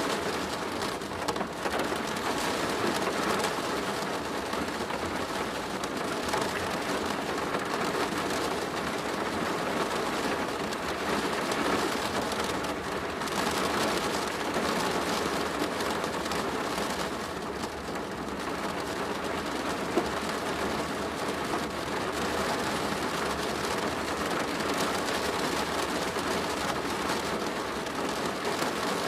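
Steady rain on a plastic roof: a dense, even patter of drops, with one sharper tap about twenty seconds in.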